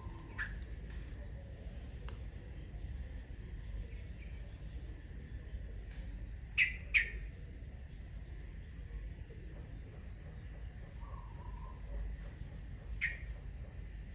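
Birds calling outdoors: a few short, sharp downward calls, two close together about halfway and another near the end, over faint scattered chirps and a low wind rumble.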